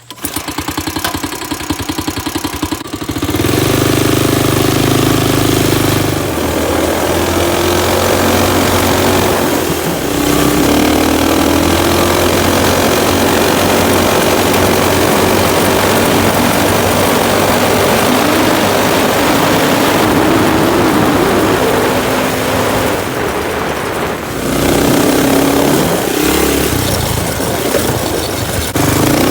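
Stage 2 Predator 212 single-cylinder four-stroke engine on an ATV, running through a 1-inch straight-pipe exhaust. It idles briefly, then revs hard about three seconds in and holds near full throttle, around 6,500 rpm, with popping from the straight pipe. Near the end it eases off briefly and then rises again.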